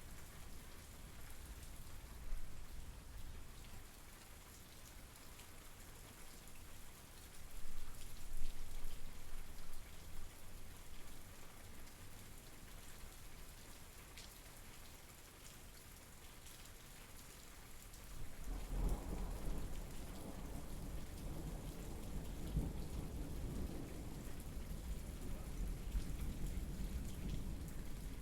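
Steady rain hissing, with a low rolling rumble of thunder coming in about two-thirds of the way through and carrying on to the end.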